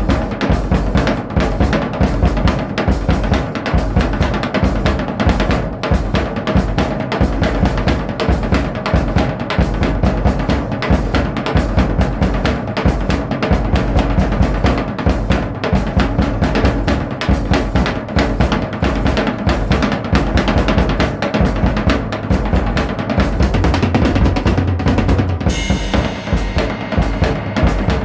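Drum kit playing a steady beat, with bass drum, snare and cymbals. About 25 seconds in, the cymbals drop out for a moment before the full beat comes back.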